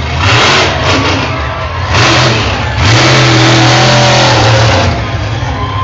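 Monster truck engine idling with a low rumble and revved hard three times, the last rev held for about two seconds.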